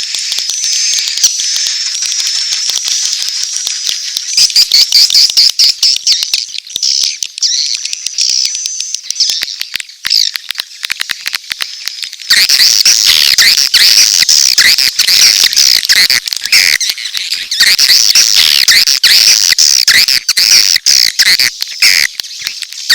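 Recorded calls of edible-nest swiftlets, a lure track of dense high twittering chirps and clicking used to call swiftlets into a nesting house. About twelve seconds in it switches abruptly to a louder, denser chorus.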